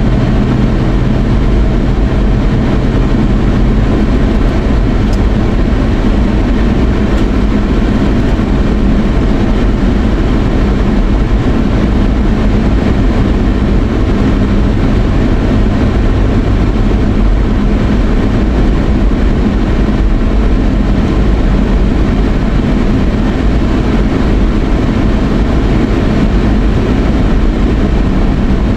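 A vehicle running steadily on the move: a constant low engine hum under an even rushing noise, with a slight change in the low hum about four seconds in.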